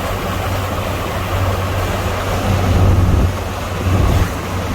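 Truck engine hum and road noise heard from inside the cab while driving at highway speed, with wind noise over it.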